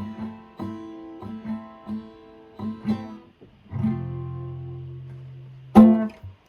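Acoustic guitar playing the closing phrase of a song: single picked notes, then a chord left ringing from about four seconds in, then one sudden loud strike on the strings near the end.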